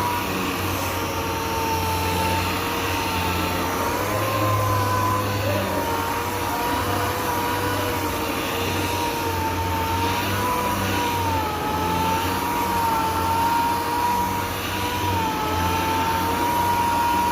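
Sanding machine running steadily on a car's epoxy-primed side panel, its motor whine wavering slightly in pitch over a steady hum and the hiss of the pad on the primer.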